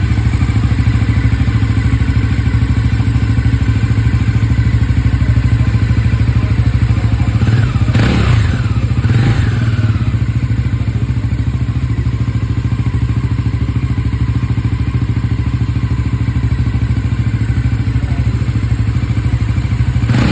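Bajaj Pulsar NS 400Z's single-cylinder engine idling through its exhaust, bassy and quite loud. About eight seconds in the throttle is blipped twice in quick succession, and the revs rise and fall back to idle each time.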